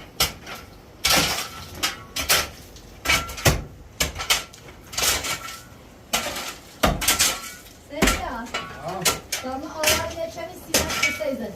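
Dishes and utensils knocking and clattering against each other in irregular, sharp strikes, with a voice faintly heard near the end.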